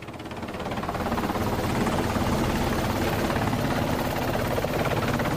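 Helicopter rotor noise, a fast steady chop with the turbine underneath, swelling over the first second or so and then holding steady.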